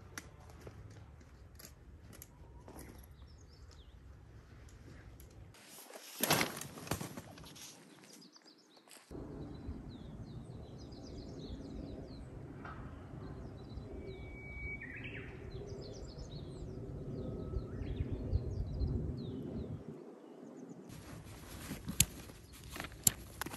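Outdoor ambience with small birds chirping, the background changing abruptly a few times. A few sharp knocks, the loudest about six seconds in.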